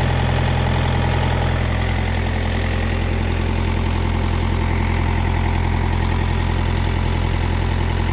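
Mitsubishi K4F four-cylinder diesel engine of a Bomag RTK 455 road roller running steadily on its second start after a semi-overhaul (new piston rings, bearings, head gasket) for hard starting and overheating; it runs smoothly.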